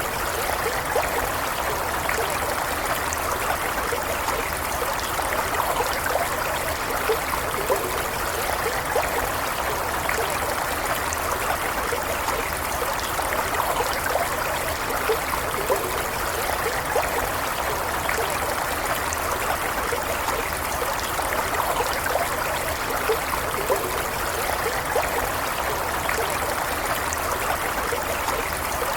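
A stream of running water flowing steadily, with a continuous rushing and small trickling splashes.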